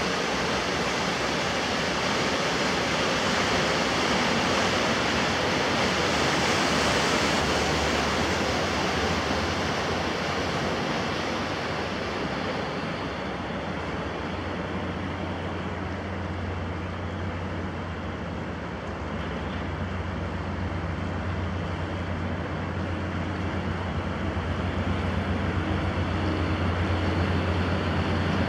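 Steady hiss of rain and wind. About halfway through, the low, steady drone of a passing inland cargo ship's diesel engine comes up beneath it and holds.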